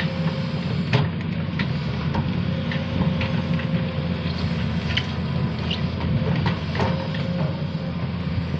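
Sany SY215C excavator's diesel engine running steadily at working speed, with scattered short clanks and knocks.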